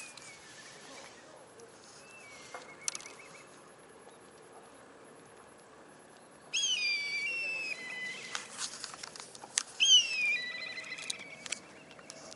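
A bird calling twice, each call a high whistle that falls in pitch and ends in a wavering trill, with a shorter faint call earlier. Light taps and knocks near the microphone come between the calls.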